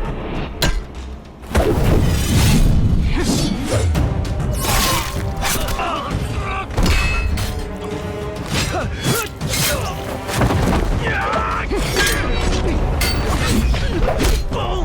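Drama action soundtrack: dramatic score under repeated sudden impacts and crashes, with brief vocal sounds mixed in.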